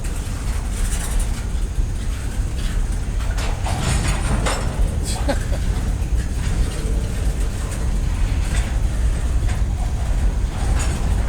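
CSX freight train rolling past: a steady low rumble with a cluster of sharp clicks and squeaks about four to five seconds in.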